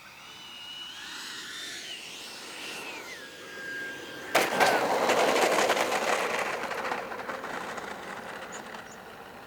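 Whine of a 90mm electric ducted fan on a Freewing J-10 RC jet, rising and falling in pitch as it passes and the throttle changes, then holding one pitch. About four seconds in, a sudden loud rushing, crackling noise cuts in and slowly fades.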